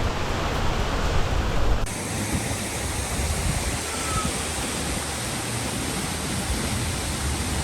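Waterfall pouring, a steady, dense rush of falling water; the deep rumble underneath thins out about two seconds in.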